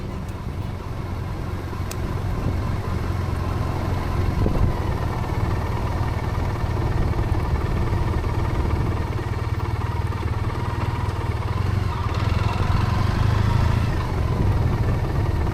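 Triumph motorcycle engine running steadily under way, a low drone that grows louder over the first few seconds and then holds.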